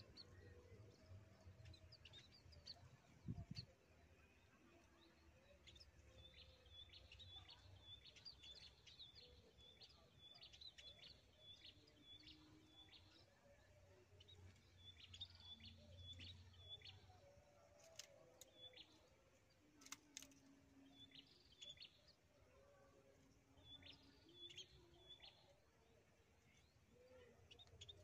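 Faint chirping of small birds, short high notes in quick runs, with a dull low thump about three seconds in and a few sharp clicks in the second half.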